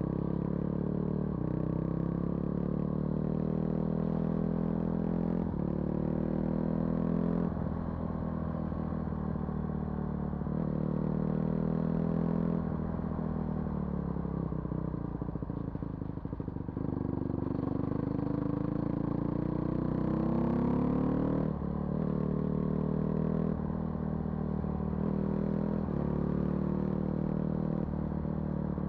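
Vehicle engine running while driving along a rough forest road, its pitch rising and falling as the throttle and load change. Rattling and clattering from the body over bumps about halfway through.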